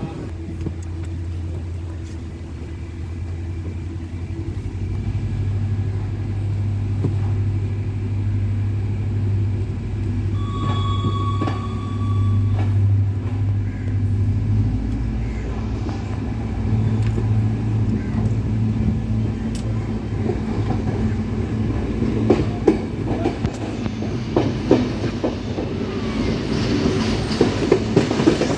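Diesel train running on rails, with a steady low engine drone that grows louder. A short high tone sounds about a third of the way in. Wheel clicks over rail joints become more frequent toward the end.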